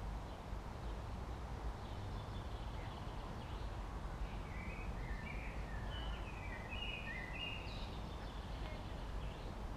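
A songbird singing a run of short, high chirps and warbles, mostly in the middle few seconds, over a steady low background rumble.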